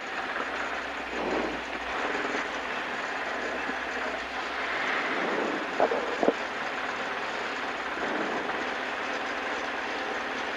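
Rally car's engine running steadily while the car stands still, heard from inside the cabin, with two short knocks a little past the middle.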